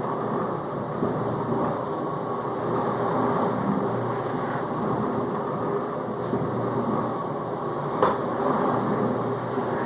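Whirlpool dishwasher in its final rinse, the circulation pump running and water spraying inside the tub: a steady wash noise with a low hum, and a single sharp click about eight seconds in.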